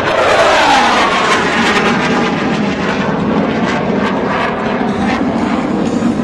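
Military aircraft flying low over the field, its pitch falling as it passes in the first two seconds, with scattered sharp cracks heard through the engine noise.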